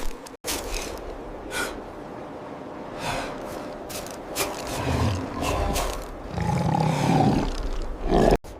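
Big cat growling and roaring, with several sharp hits along the way. The sound drops out abruptly twice, just after the start and near the end.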